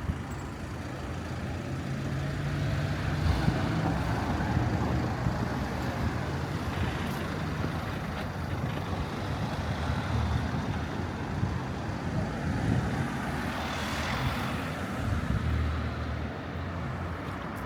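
Outdoor city street ambience: a steady low rumble under a general hiss, with a broad swell that rises and falls about fourteen seconds in.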